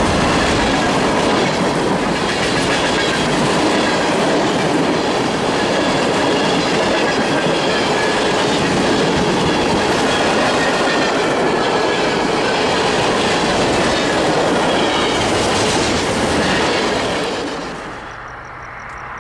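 A train rolling past close by, wheels clattering steadily over the rails with a faint high-pitched wheel squeal. The noise falls away sharply near the end as the train clears.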